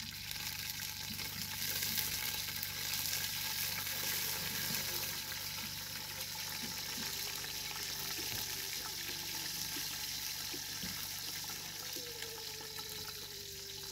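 Onions frying in a cooking pot: a steady sizzle that swells about two seconds in and then holds.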